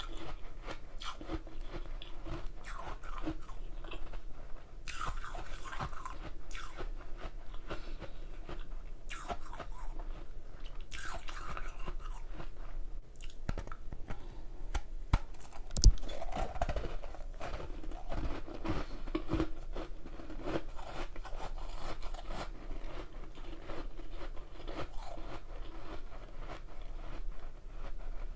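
A person biting and chewing hard ice close to the microphone: dense, irregular crunching and cracking, with one sharp, louder crack about sixteen seconds in.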